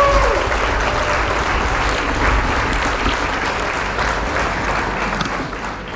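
Wind buffeting the microphone of a moving bicycle, with a steady rushing noise and low rumble, plus a brief squeak right at the start. The noise eases off near the end as the bike slows.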